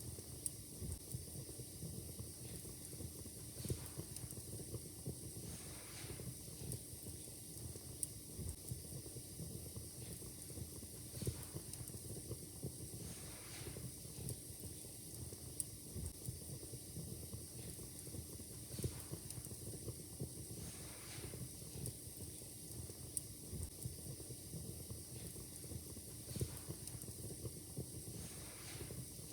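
Fire in a fireplace crackling: irregular sharp pops and snaps over a steady hiss.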